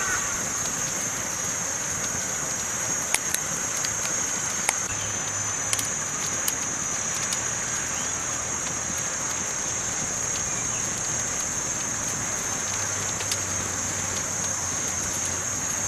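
Campfire burning with a steady crackling hiss, broken by a few sharp pops about three to six seconds in.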